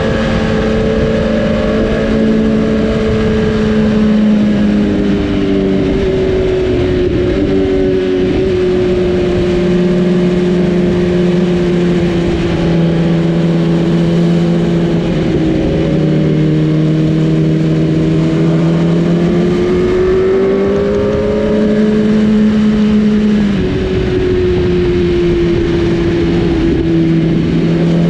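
Superbike engine and exhaust running at steady high revs at highway speed, with a rush of noise underneath; the engine note holds and shifts down and up in pitch a few times.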